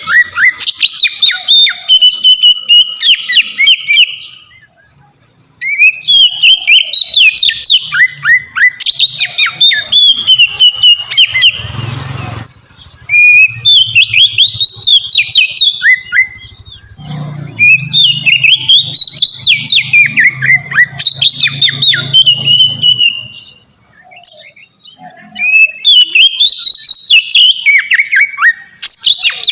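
Oriental magpie-robin (kacer) singing loudly in long, varied phrases of high whistled notes and fast trills, breaking off briefly twice, about five seconds in and again near the end.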